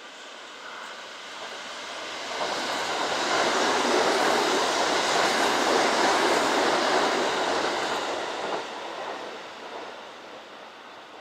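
A Kintetsu electric train passing through the station, its rail and running noise swelling to a peak over a few seconds, holding, then fading away.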